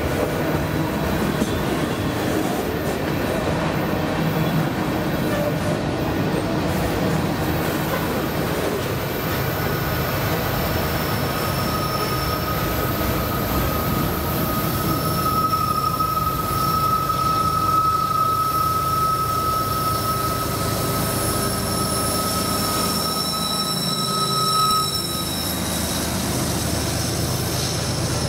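CSX freight train rolling past with steady rail noise. A thin, steady high wheel squeal starts about a third of the way in, is strongest around the middle and stops a few seconds before the end.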